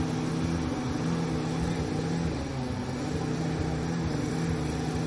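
Four-cylinder model engine running steadily at a constant speed.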